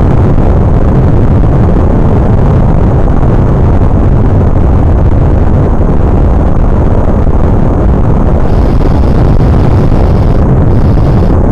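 Airplane noise: a loud, steady rush with no clear pitch, heaviest in the bass, that starts and cuts off abruptly.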